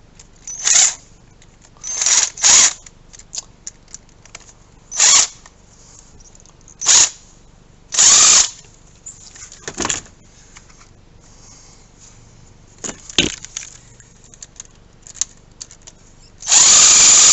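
A power driver tightening hose clamps in a series of short trigger bursts, then running continuously near the end.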